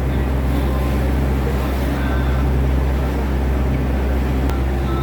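Tour boat's engine running steadily under way, a constant low drone, with wind and water noise over it.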